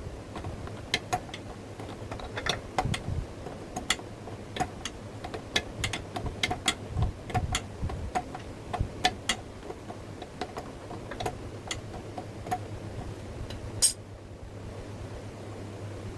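Irregular light metallic clicks and taps, a few to several a second, over a steady low hum, with one louder click near the end.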